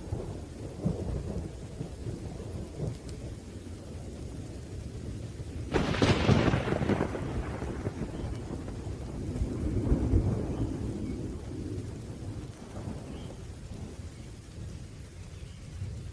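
Thunderstorm with steady rain and low rolling thunder; about six seconds in a sharp thunderclap cracks and rolls away, and the rumble swells again around ten seconds in.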